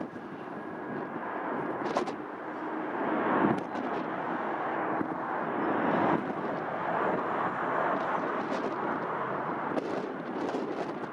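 Jet airliner's engines at takeoff power, a steady loud rushing noise that swells a little over the first few seconds, with a few sharp knocks of wind buffeting the microphone.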